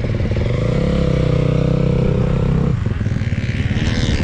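Dirt bike engine running close by: the revs rise about a second in, hold steady, and drop back just before the three-second mark.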